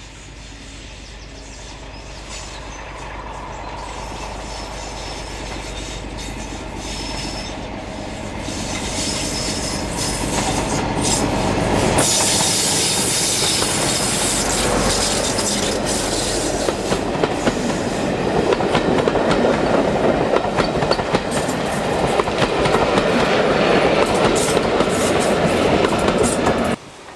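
A diesel-hauled train approaching and passing close by: its sound builds steadily, then wheels clatter over the rail joints as the train rolls past. The sound stops abruptly near the end.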